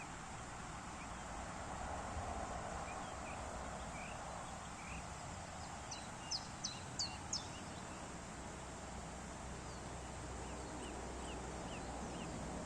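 Outdoor ambience with a steady hiss and birds chirping throughout, with a quick run of about five sharp, high calls about six seconds in.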